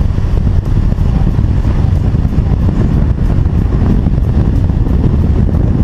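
A car on the move: a loud, rough low rumble of engine and road noise with wind buffeting the microphone.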